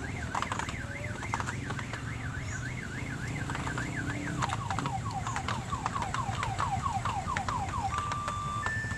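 Electronic siren effect cycling through its patterns: a fast up-and-down warble for about four seconds, then quick falling chirps about three a second, then alternating two-tone beeps near the end. A steady low engine hum runs underneath.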